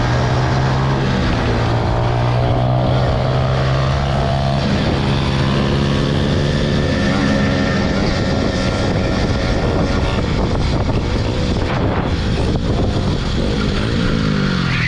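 Small motorbike engine running at speed while being ridden, with wind noise on the microphone. The engine note holds steady for the first half, then wavers and drops in pitch near the end as the throttle eases.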